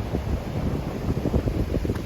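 Wind buffeting the microphone: an uneven low rumble that flutters rapidly without let-up.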